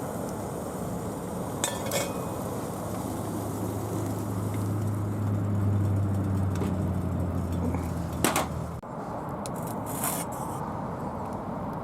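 A few sharp metallic clinks, in keeping with steel camp cookware or fire-pit parts being handled, over a steady outdoor background noise. A low droning hum swells in the middle and cuts off abruptly about nine seconds in.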